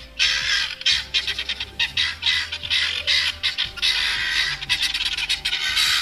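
Helmeted guinea fowl calling: a fast, continuous run of harsh, raspy calls repeated several times a second.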